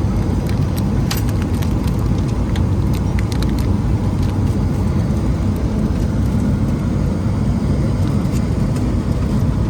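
Steady low roar inside a Boeing 777-300ER airliner cabin, from engines and airflow, with a few light clicks about a second in and again around three seconds.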